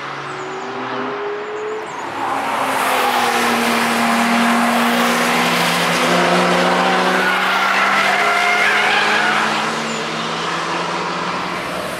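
A car's engine passing at speed on a race track, growing louder about two seconds in, loudest through the middle, and fading away after about ten seconds.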